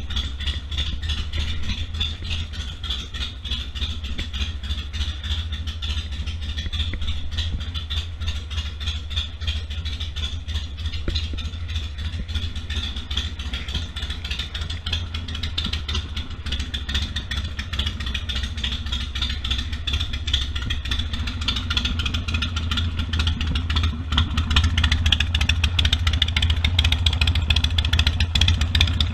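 Harley-Davidson Sportster 1200's air-cooled V-twin engine running steadily, getting louder near the end.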